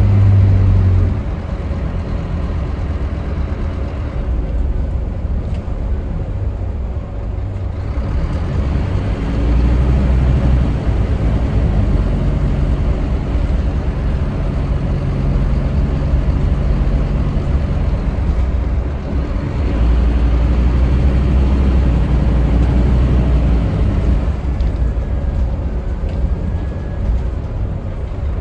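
Scania K310UB city bus heard on board: its diesel engine and road noise run on continuously, with the engine pulling harder for a few seconds twice, about ten and about twenty seconds in.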